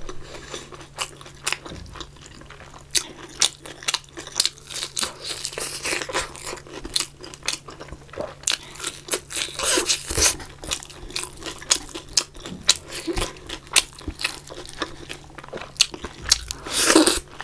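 A person chewing crunchy fried food close to the microphone, with a steady run of crisp crackles and bites. A louder, longer mouthful sound comes near the end.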